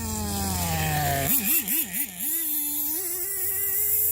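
RC10GT nitro truck's small glow-fuel engine with a short stinger exhaust pipe, buzzing at high revs. The revs fall away over the first second or so, wobble up and down with quick throttle blips, then hold steady at higher revs.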